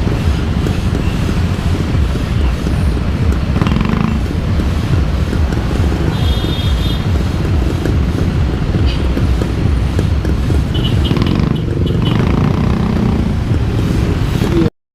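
Vehicle on the move: a steady low rumble of engine and road noise that cuts off suddenly near the end.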